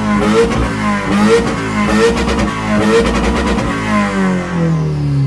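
2016 Subaru WRX's turbocharged flat-four, fitted with an open downpipe and no exhaust behind it, revved hard again and again, its pitch rising and falling about once a second with some crackle. Near the end the revs fall away.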